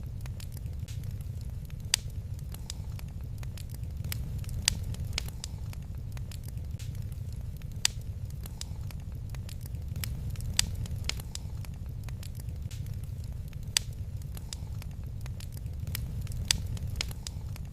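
Wood fire crackling in a fireplace: scattered sharp snaps and pops, the loudest coming about every three seconds, over a steady low rumble.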